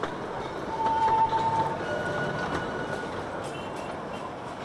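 Narrow-gauge Darjeeling Himalayan Railway train coaches rolling slowly past at close range, a steady rumble of wheels on rail. A brief squealing tone from the wheels comes about a second in. The sound eases off toward the end.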